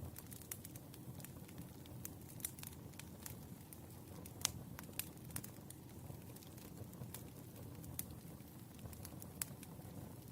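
Wood fire crackling: irregular sharp pops and snaps over a steady low rumble of burning logs. The loudest pop comes about four and a half seconds in.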